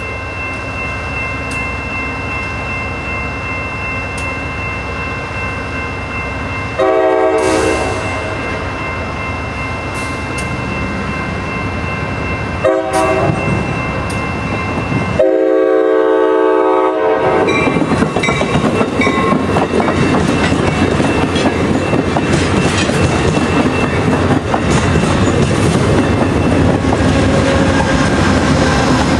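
Diesel locomotive horn sounding three blasts over a steady train drone, two short and a final blast of about two seconds. From about halfway through, a bilevel passenger train passes close by, its wheels clattering loudly over the rail joints.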